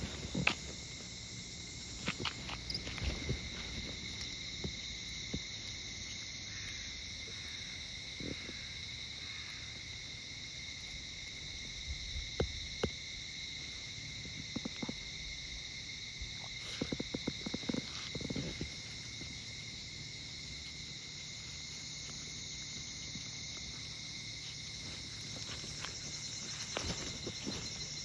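Insects chirring in a steady, continuous high-pitched drone of several even tones. A few scattered soft footsteps and clothing rustles come and go over it.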